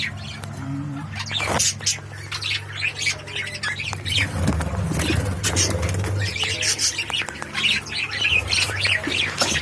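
A colony of budgerigars chattering, with many overlapping squawks and chirps throughout, over a steady low hum.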